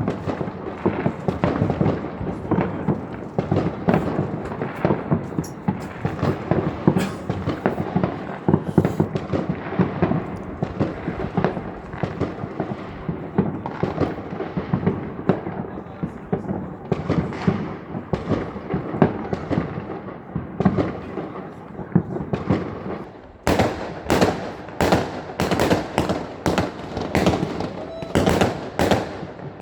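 Fireworks going off: a dense, continuous crackle of bursts and bangs, then from about 23 seconds in a run of separate sharp bangs, two or three a second.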